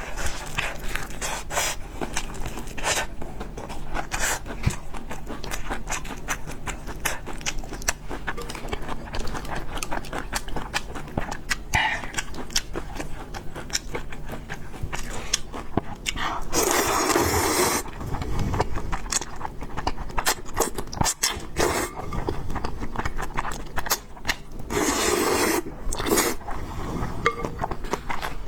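Close-miked eating sounds of spicy fried noodles with pork: clicks and scrapes of utensils against the dish with chewing. Two louder, longer sounds of about a second and a half come partway through and near the end.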